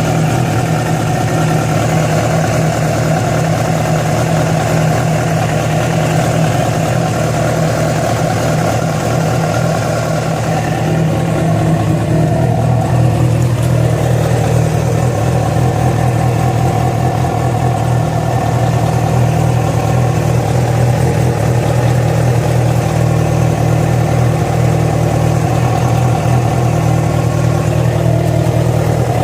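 Yamaha FZ6's inline-four engine running steadily at idle, its note shifting slightly and getting a little louder about halfway through. This is the strange engine noise that started after the bike was ridden about 70 km on two cylinders because of a failed ignition coil connector.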